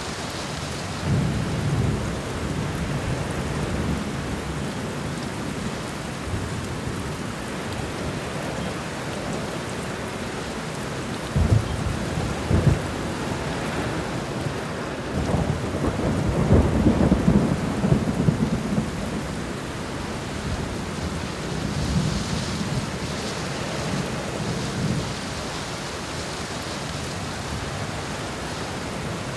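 Thunderstorm: steady heavy rain with rolling thunder. Two sharp claps come about a third of the way in, followed past the middle by the longest and loudest rumble, with softer rolls near the start and later on.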